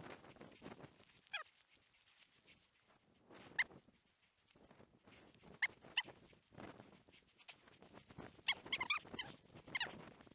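Bird dog whining in short, high cries that slide down in pitch while trailing a wounded pheasant by scent, with a quick cluster of cries near the end, over a soft rustling through grass cover.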